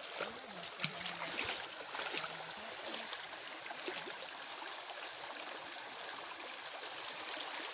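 Stream water flowing steadily, an even rushing over the stones, with a few faint clicks.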